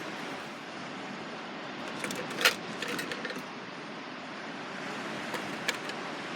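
Light metallic clinks and clatter, like metal camp gear being handled: a cluster about two to three seconds in, the loudest among them, and two more near the end, over a steady background hiss.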